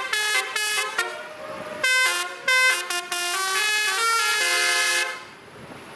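Basuri (telolet) musical air horn on a truck playing a tune in short stepped notes, several tones sounding together, stopping about five seconds in.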